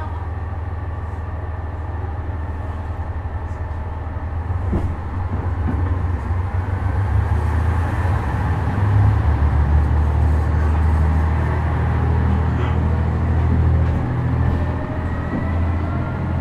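KiHa 126 diesel railcar heard from inside: the engine runs steadily, then about four and a half seconds in it throttles up and gets louder, and toward the end rising whines come in as the railcar gathers speed.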